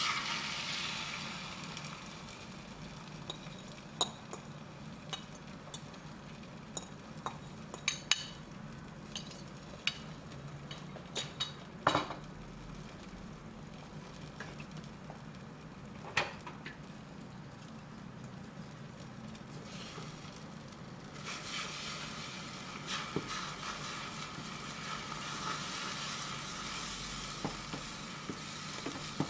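Food sizzling in a pan, with scattered sharp clicks of a utensil against the pan; the sizzle starts suddenly and grows louder about two-thirds of the way through.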